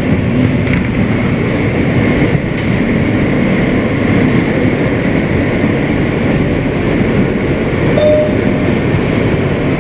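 Kawasaki R160B subway car running on the rails, heard from inside the car as a loud, steady rumble of wheels and running gear. There is one sharp click about two and a half seconds in, and a brief squeal near the end.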